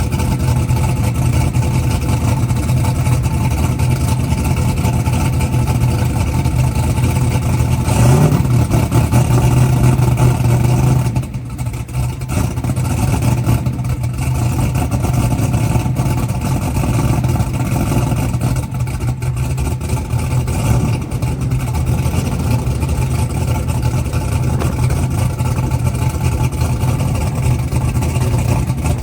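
A race engine running steadily, rising in pitch and loudness briefly about eight seconds in, then settling back.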